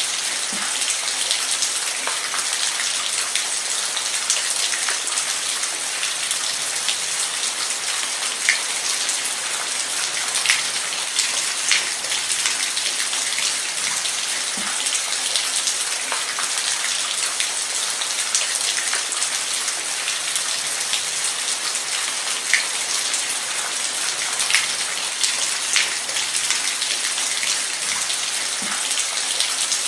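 Steady rain falling, a constant hiss with individual drops tapping sharply here and there.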